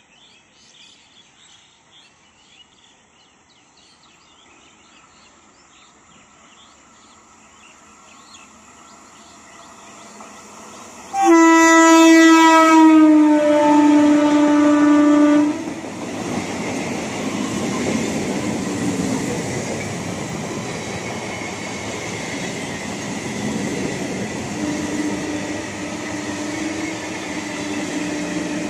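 Eastern Railway electric multiple unit approaching with a slowly rising rumble, then sounding a loud horn for about four seconds whose pitch drops partway through as the train reaches the platform. The coaches then roll past with a steady rumble and wheel clatter.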